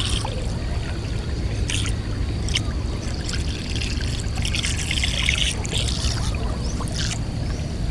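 Water splashing and dripping in short irregular bursts as a trotline and its hooks are pulled up out of the river by hand, over a steady low rumble.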